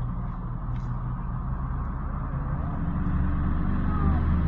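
A motor vehicle's engine running with a steady low hum, growing louder from a bit past halfway through as a vehicle comes closer on the road.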